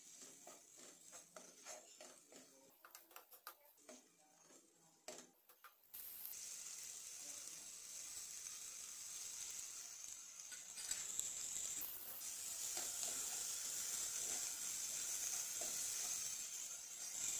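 A metal spoon stirring and scraping diced potatoes in a non-stick pan, with uneven clicks and scrapes. About six seconds in, a steady sizzling of the potatoes frying in oil begins and lasts until it cuts off abruptly at the end, with occasional spatula scrapes over it.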